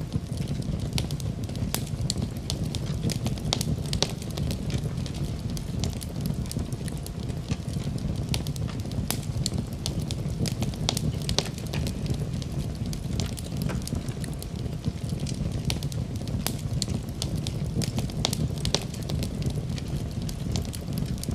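Wood fire burning in a fireplace with a steady low rumble and frequent irregular sharp crackles and pops.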